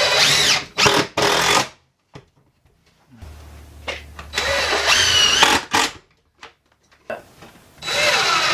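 Power drill run in three main bursts, its motor whine rising in pitch as each run starts, with a couple of short quick trigger pulls after the first.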